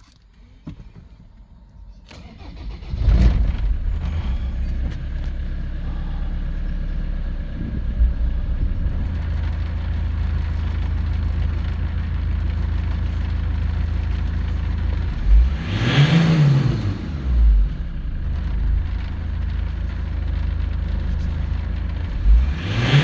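Ford Transit 2.4 TDCi four-cylinder diesel engine being started for a test run: it cranks and catches about three seconds in, then idles steadily. It is blipped up and back down twice, once past halfway and again near the end.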